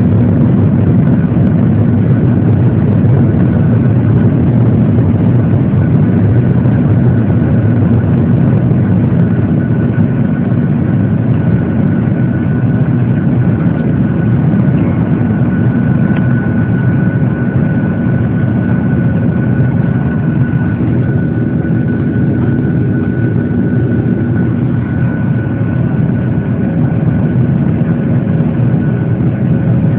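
Boeing 737-800 jet engines and airflow heard from inside the passenger cabin: a loud, steady low rumble with a thin, steady high whine above it.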